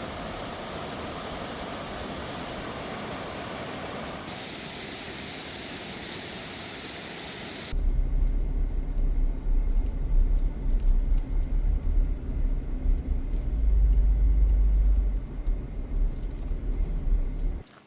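Vehicle driving along a road. A steady rush of road noise gives way suddenly, about eight seconds in, to a louder, uneven low rumble.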